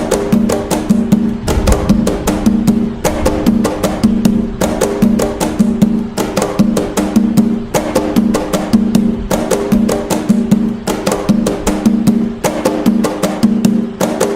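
Atabaque drums playing the toque nagô, an Umbanda drum rhythm: a fast, steady, repeating pattern of strokes over a ringing low drum tone.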